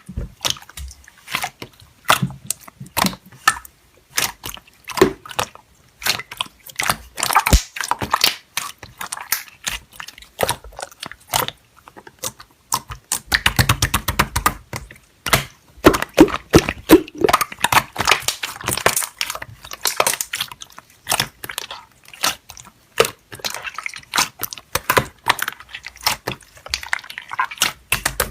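Slime being squished and pressed by hand: a dense, irregular run of wet clicks and pops.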